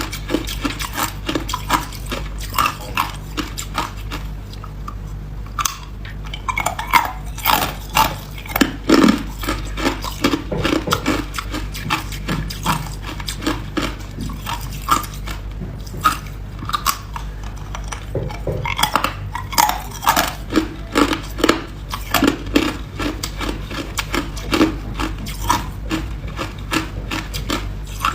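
Hard ice being bitten and chewed close to the microphone: a dense run of sharp, cracking crunches that comes in clusters, over a steady low hum.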